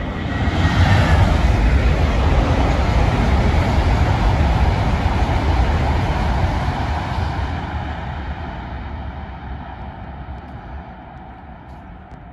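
Deutsche Bahn ICE high-speed train passing at speed: a rush of wheel and air noise that swells over the first second, holds for several seconds, then fades away.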